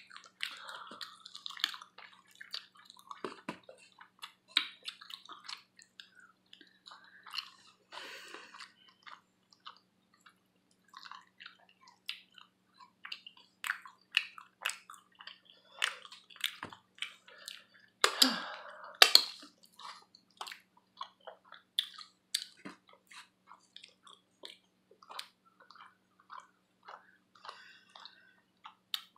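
Close-up chewing and lip-smacking while eating buffalo wings with sauce: many short, irregular wet smacks and clicks, with a louder burst of sounds about two-thirds of the way through.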